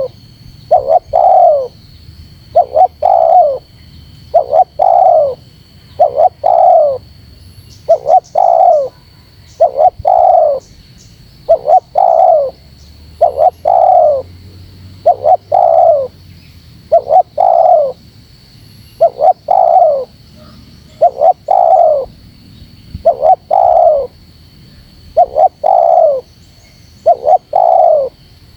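Spotted dove (terkukur) cooing over and over, a phrase about every two seconds: two short notes then a longer falling note. It is the closely repeated calling used to challenge a rival.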